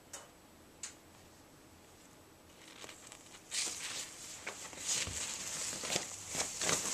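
A pet moving about inside a fabric tent: a couple of light clicks, then from about two and a half seconds in a busy rustling and crinkling of the fabric with scratches and taps.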